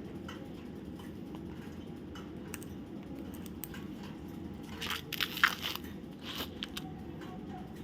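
Parrot cracking sunflower seeds in its beak: a quick cluster of sharp crunching clicks about five seconds in, then a few more just after, over a steady low hum.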